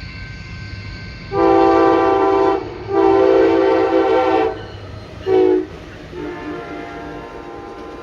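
Locomotive air horn sounding a chord of several tones: two long blasts and a short one, then a fainter held note, the long-long-short-long pattern of a grade-crossing signal. The passing train rumbles underneath.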